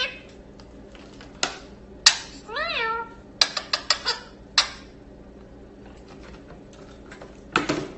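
A single meow-like call that rises and falls in pitch, with several sharp clicks and taps around it and a short rustle near the end.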